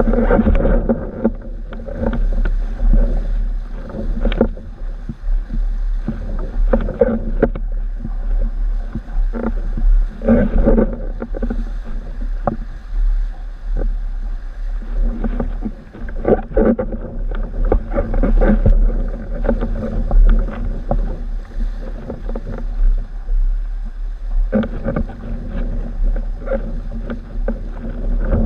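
Windsurf board moving through choppy water in strong wind: constant wind rumble on the microphone, with water splashing and slapping against the board in frequent irregular knocks.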